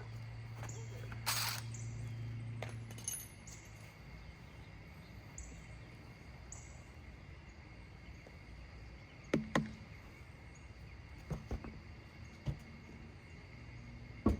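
A few sharp metallic clinks and knocks from tools and wheel hardware while a new rim is fitted to a jacked-up car, with a short hiss early on. Crickets chirp faintly and regularly, and a low hum fades out about three seconds in.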